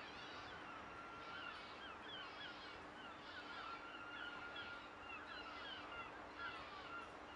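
Birds calling in a busy chorus of short, overlapping chirps, several a second, over a faint steady hum.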